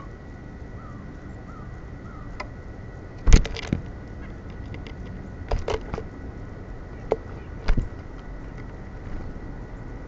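Sharp taps and knocks right at a bird feeder, the loudest a third of the way in and a few more over the next four seconds, typical of birds landing and pecking at seed. A few faint short bird chirps come in the first couple of seconds.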